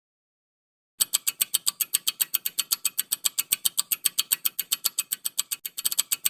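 Countdown timer sound effect: rapid, even ticking at about six ticks a second, starting about a second in.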